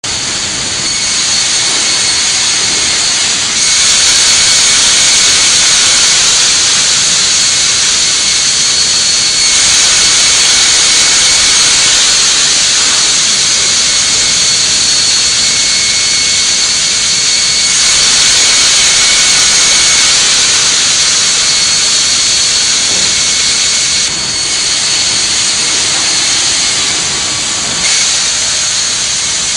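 Söderhamn Eriksson sawmill band saw running with a loud, steady high whine and hiss. It grows louder for several seconds at a time, three times over.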